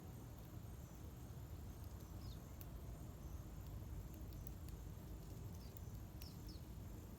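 Faint outdoor ambience: a few short, high bird chirps, twice close together near the end, over a steady low background rumble.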